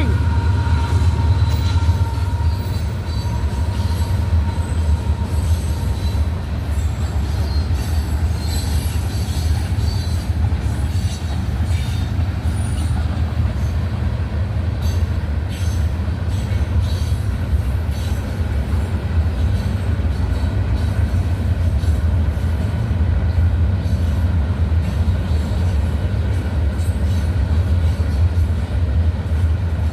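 Freight train rolling past: a steady, loud, heavy rumble of wheels and cars, with faint high wheel squeal and scattered clicks from the rails.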